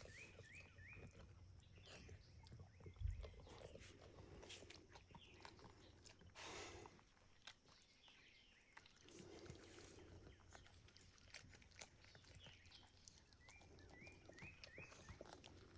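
Faint, quiet scene with newborn puppies squeaking: quick runs of short rising squeaks near the start and again near the end, with a soft thump about three seconds in.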